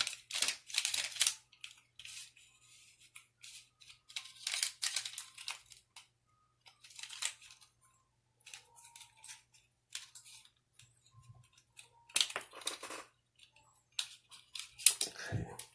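Irregular plastic clicks, scrapes and rustles as the parts of a Toyota airbag clock spring are handled and fitted back together, and its inner wheel is turned to line up the alignment marks.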